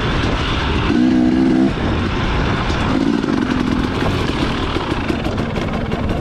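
Dirt bike engine running under a steady rush of noise, with a brief held note about a second in and the engine pitch shifting after that.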